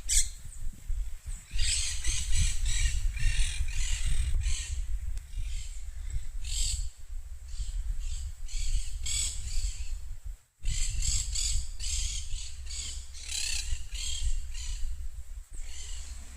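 Monk parakeets giving a long series of harsh, rapid squawks, with a short break about two-thirds of the way through. A steady low rumble runs underneath.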